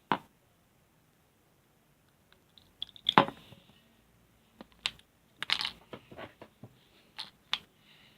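Slime being handled and squished, giving irregular sharp sticky clicks and pops: one at the start, a burst about three seconds in, and a run of them in the second half.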